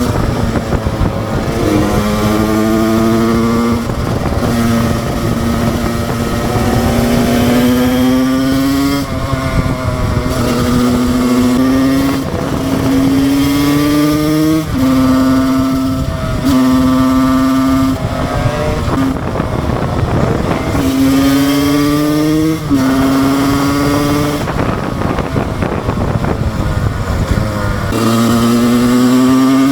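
2007 Husqvarna SM 125 two-stroke single-cylinder engine under way, revving hard. Its pitch climbs, then breaks off and drops every couple of seconds as the rider shifts gear or lets off the throttle.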